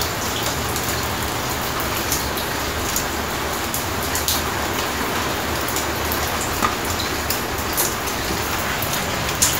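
Steady rain falling on wet tile paving, with scattered sharper drops landing close by. Under it, water is at a rolling boil in an aluminium mug on an alcohol stove.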